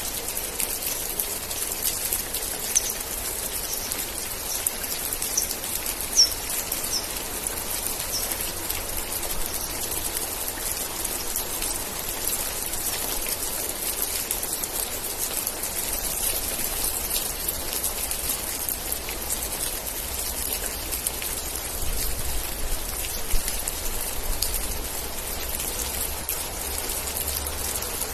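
Steady rain falling, with dense drops ticking and pattering on surfaces. A few short high chirps sound in the first third, and a faint low rumble joins about halfway through.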